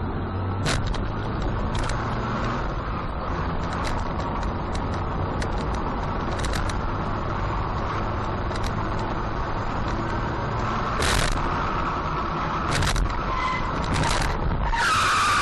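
Car driving, with a steady engine and road noise picked up by a dashcam, broken by several short sharp clicks. A louder, harsh scraping or skidding noise comes right at the end.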